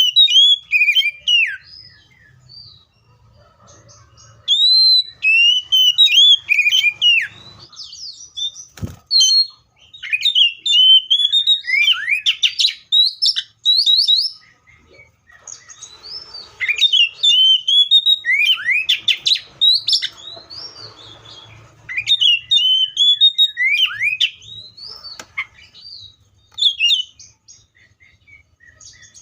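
Seychelles magpie-robin singing loudly: phrases of clear whistled notes and quick slurred chirps that slide up and down, in bursts with short pauses between them. A single knock about nine seconds in.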